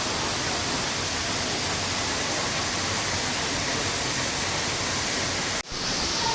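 Rushing water of a large waterfall, a steady hiss with no change in level, cutting out for an instant near the end.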